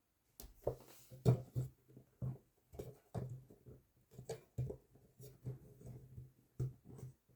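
A run of irregular light knocks and clicks, about two or three a second, starting about half a second in, in a small room.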